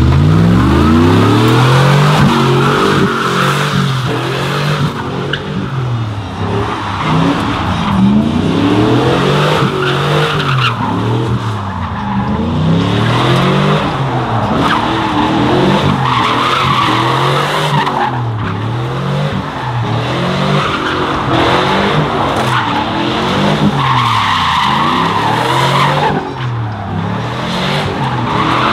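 Truck doing a burnout: the engine revs up and down over and over, about once every second or two, over the continuous squeal and hiss of spinning tyres.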